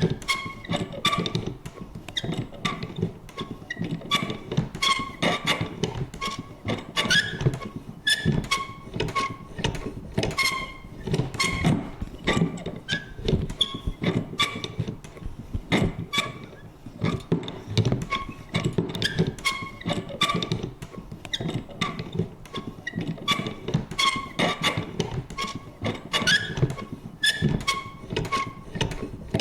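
Vintage paper punch worked over and over: a steady run of creaks and squeaks with sharp clunks, a little over one a second.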